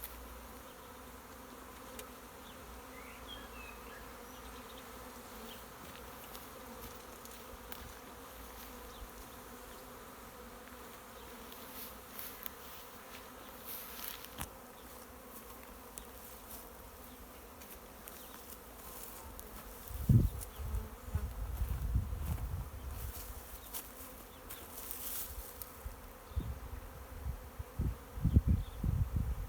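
Honeybee swarm buzzing steadily, the bees disturbed and flying around during removal of the swarm. In the last third, low rumbling bumps on the microphone come in over the buzz.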